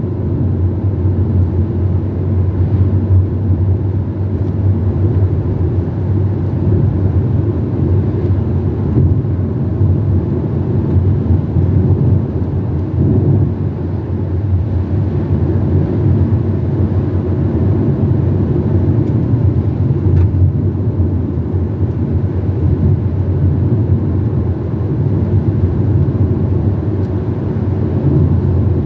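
Steady drone of a car driving along a road, engine and tyre noise heard from inside the cabin.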